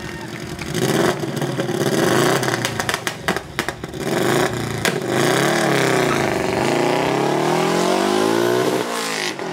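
A supercar engine being driven hard under acceleration. The pitch dips and climbs again about halfway through, then rises steadily and cuts off just before the end.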